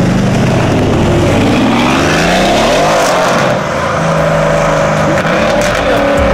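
Mercedes-AMG C63 coupe's twin-turbo V8 revving as the car pulls away, the engine note rising and falling in pitch.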